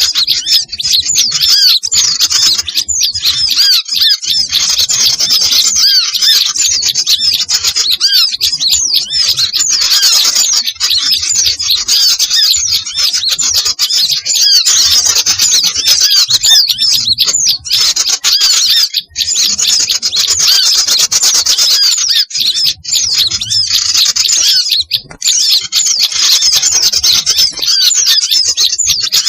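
Dense, unbroken chorus of many small songbirds, including bulbuls, chattering and chirping over one another in a noisy, agitated din. It is a bird-lure recording used to draw small birds in for trapping.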